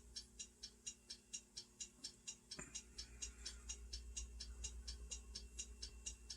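Faint, steady ticking, about four ticks a second, over a low hum.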